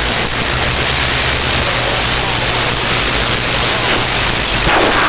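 CB radio receiver hissing with steady static between transmissions, the open channel growing a little louder near the end as another station keys up.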